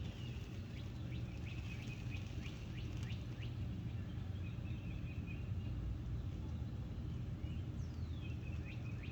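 Birds chirping in short, quick calls that fall in pitch, thickest in the first few seconds and again near the end, over a steady low hum.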